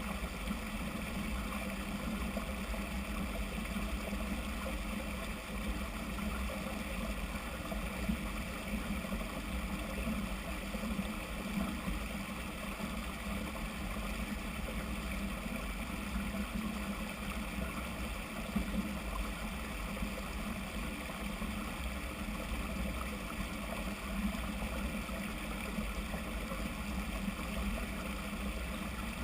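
Steady rumbling wind and rolling noise from a mountain bike ride, with small irregular knocks from the bike over the trail.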